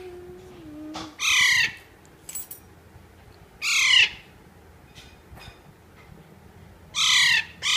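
A young pet parrot squawking: four short, harsh, loud squawks, spaced a few seconds apart, the last two close together near the end.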